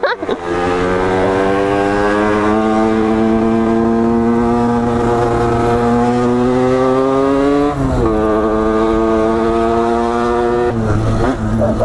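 Motorcycle engine pulling under acceleration, its pitch climbing slowly for about eight seconds, then dropping suddenly, as at a gear change, and holding steady.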